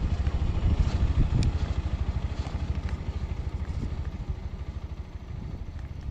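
Motorcycle engine running at low revs, a fast steady beat of exhaust pulses that slowly grows quieter.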